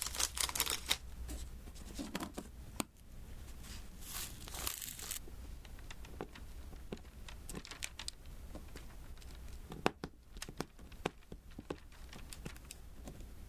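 Diamond painting pen tapping resin drills onto the sticky canvas: a run of small, irregular ticks and sticky clicks, with a brief crinkly rustle at the start and again around four to five seconds in.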